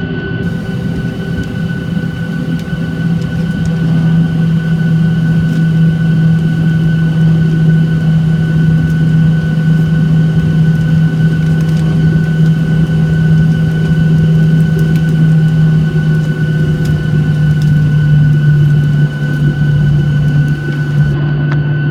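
Boeing 737-800's CFM56 jet engines running, a steady low hum with a thin high whine over it. It grows louder over the first few seconds and then holds steady.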